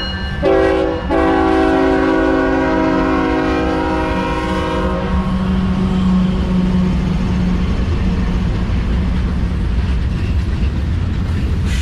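Train whistle sounding a chord: a short blast, then a long one of about four seconds, over the steady low rumble of a train.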